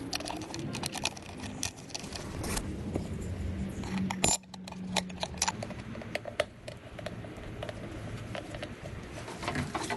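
Irregular metallic clinks and clicks of parts and hand tools being handled during garbage-disposal installation work, with a short low hum and one sharp loud click about halfway through.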